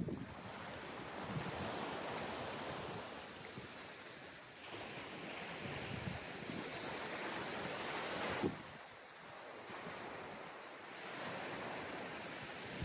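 Sea waves breaking and washing up a sandy beach, the surf swelling and easing in several slow surges, with a brief thump about eight seconds in. Wind buffets the microphone.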